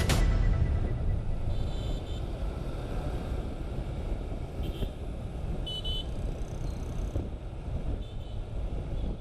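Steady low engine rumble, with a few faint, short high chirps over it.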